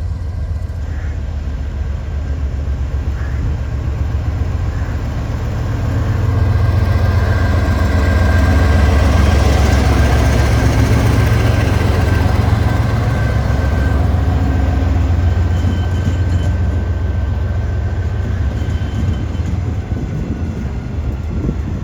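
KTMB Class 26 diesel-electric locomotives running with container wagons, a steady low engine drone that grows louder, is loudest about ten seconds in, then slowly eases off.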